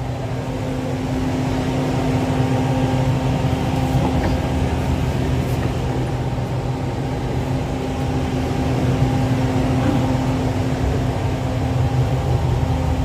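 Steady mechanical hum of a stationary diesel-hauled passenger train's onboard machinery, heard inside the coach, with a few low held tones.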